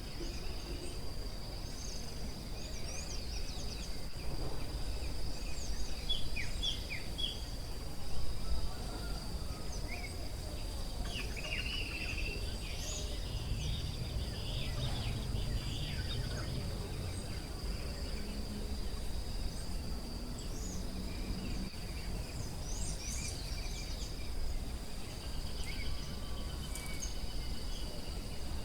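Forest ambience: a steady high-pitched insect trill runs throughout, with scattered short bird chirps and calls over a low rumbling background noise.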